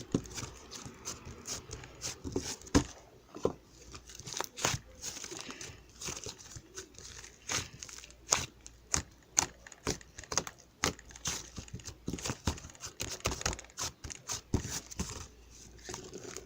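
Irregular crinkling and tearing sounds made by handling, with many short sharp crackles at uneven intervals.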